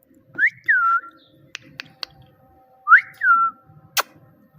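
Parrot whistling a two-note 'Mitthu' phrase twice, each a quick rising note followed by a falling one. A few light clicks come between the phrases, with a sharp click near the end.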